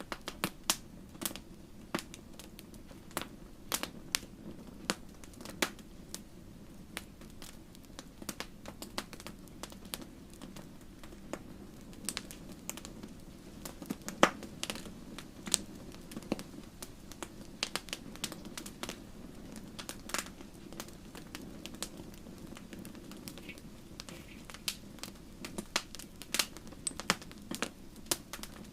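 Wood fire burning in a fireplace: irregular sharp crackles and pops over a soft steady rush of flame, with one louder pop about halfway through.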